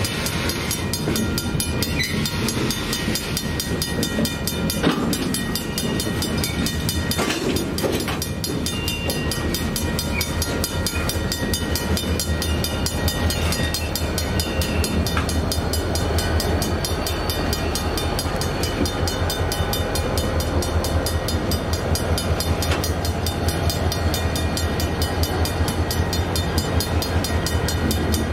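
A train rolling past: a steady low rumble from the wheels and cars, with a fast, even clatter running through it and a few single knocks.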